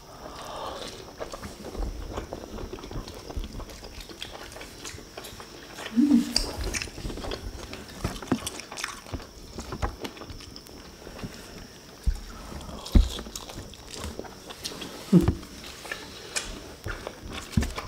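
Close-up eating sounds of people chewing and biting into stuffed rolled chicken and rice eaten by hand, with small wet mouth clicks and a few soft thumps. There are two brief voice sounds from the eaters partway through.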